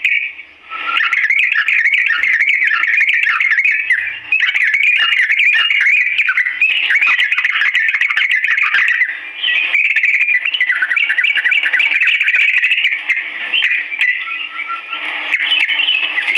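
Yellow-vented bulbul (trucukan) singing a long, fast run of chattering, warbling notes, with short breaks about half a second in and near ten seconds.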